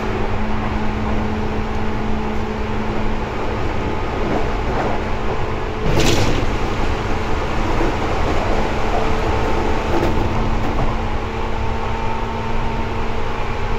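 Seibu 2000 series electric train running, heard from inside the car above its line breaker: steady running noise with a hum. A single sharp clack about six seconds in, after which the noise stays slightly louder.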